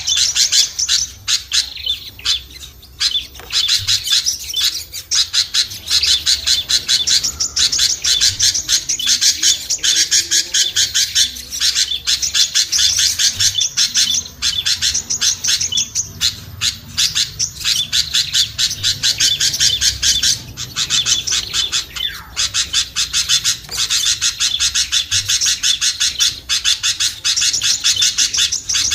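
Busy, continuous chattering of small songbirds, a bird-lure (suara pikat) recording made to draw down small birds such as prenjak, sogon and kutilang. The calls are rapid, high-pitched chirps crowded one on another, with no pause.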